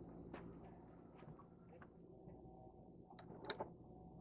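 Faint scattered clicks and clinks of hand tools and metal parts being handled, with a sharper clink about three and a half seconds in, over a steady high-pitched drone.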